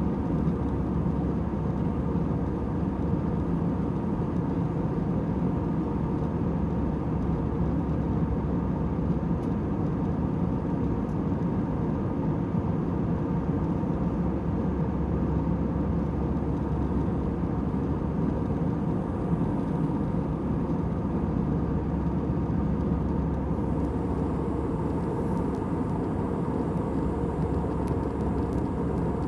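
Airliner cabin noise in flight: a steady, even rumble and hiss with a low hum and faint steady tones.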